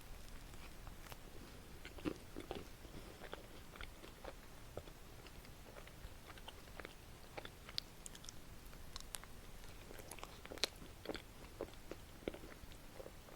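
Close-miked eating of a chocolate waffle: bites and chewing with scattered small crisp crackles and wet mouth clicks, a sharper crunch about two seconds in and another near the end.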